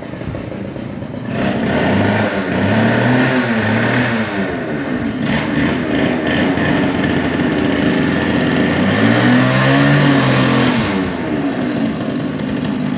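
Two-stroke gas cut-off saw (hot saw) running and revved up and down twice, about two seconds in and again near ten seconds. It has just been brought back to life after about two years unused, with a freshly cleaned carburettor and fresh fuel.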